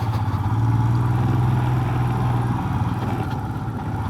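Motorcycle engine running steadily at low revs, with a slight rise in pitch about half a second in that settles back about halfway through.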